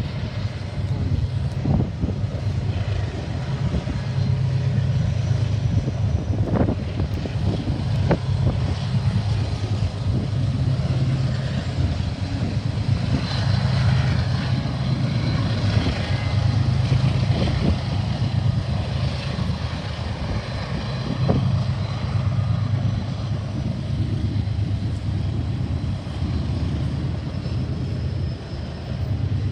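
BNSF freight train's GE diesel locomotives running past under power, a steady low engine drone with occasional faint knocks.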